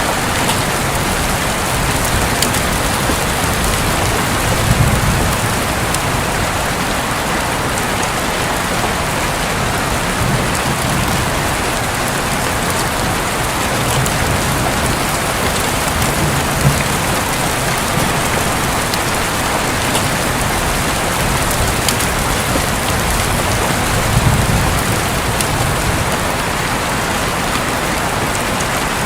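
Steady heavy rain drumming on a roof, with scattered drop ticks. A low rumble swells briefly three times, around 5, 17 and 24 seconds in.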